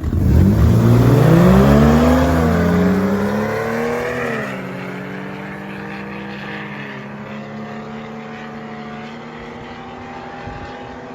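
A 4x4 truck's engine launches at full throttle down a mud drag strip. Its revs climb steeply, dip and climb again around two seconds in, then drop off about four and a half seconds in, leaving a steadier engine note that fades.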